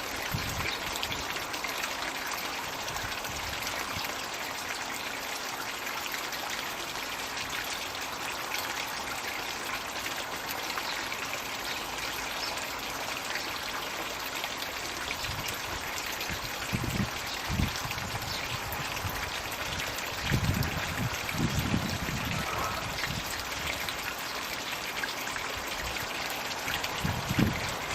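Floating Magic Bucket pond water feature running: a steady trickle and splash of water pouring into the pond. A few brief low rumbles come in around the middle and near the end.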